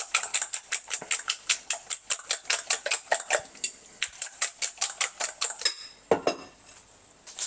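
A fork whisking egg mixture in a bowl, its tines clicking rapidly and evenly against the bowl about five or six times a second. The whisking stops a little under two seconds before the end.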